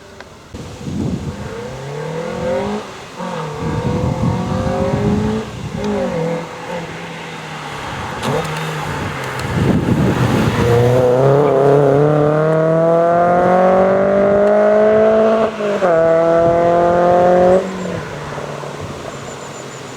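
VW Lupo GTi's 1.6 16-valve four-cylinder engine through a Kam Racing 4-1 manifold and performance exhaust, accelerating hard through the gears: the revs climb in each gear, with short dips at the gear changes. Near the end the engine backs off and the sound drops away.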